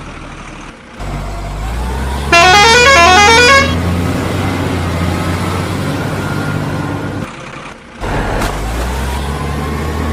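Battery-powered toy vehicles' electronic engine sound running as a steady low hum, with a loud electronic horn tune of quick stepped notes about two seconds in, lasting just over a second. The hum breaks off briefly twice.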